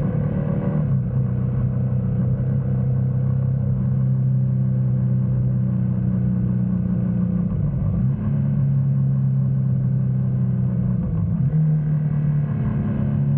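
GS motorcycle engine running steadily under way, with a deep, even note whose pitch steps a few times.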